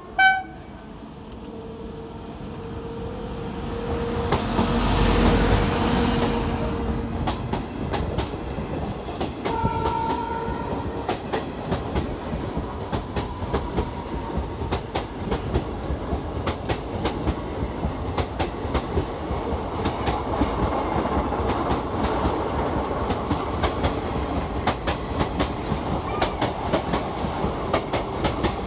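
Electric-hauled Indian Railways express train passing close along a platform. A horn blast ends just at the start, the locomotives' hum and rush swell to their loudest about five seconds in, and then the coaches' wheels keep up a steady clickety-clack over the rail joints.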